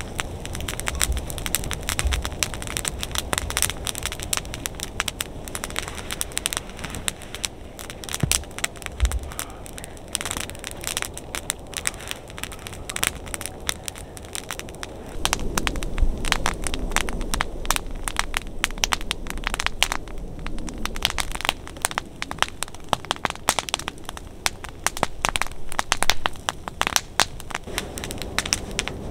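Wood fire crackling and popping with many irregular sharp snaps. A low steady rushing joins about halfway through.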